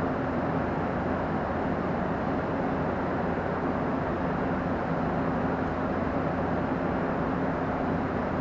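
Steady low rumbling background noise with a faint even hum, like distant traffic or machinery. No ball strikes are heard.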